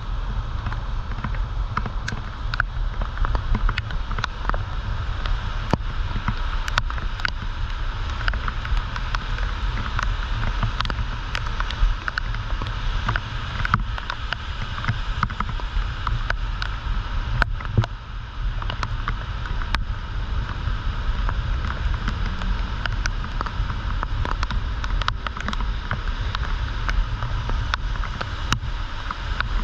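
Typhoon wind buffeting the camera microphone in a steady rumble, with the hiss of heavy rain and many sharp ticks of raindrops striking close by.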